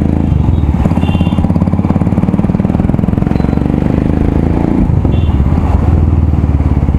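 Royal Enfield Himalayan's 411 cc single-cylinder engine running through a loud aftermarket exhaust, a steady rapid thump of firing pulses; the engine note shifts about five seconds in.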